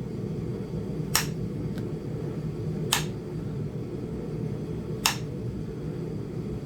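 Three sharp, light taps about two seconds apart as a #1 indirect-percussion flaker is struck against a small Flint Ridge chert biface, working to pop a knob off its edge.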